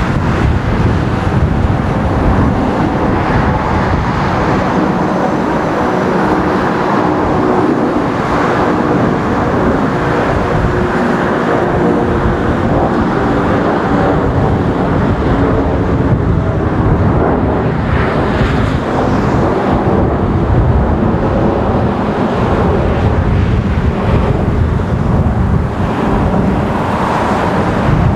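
Jet engines of a Lufthansa Airbus A330-300 airliner, heard as loud, steady engine noise with a faint hum of engine tones running through it.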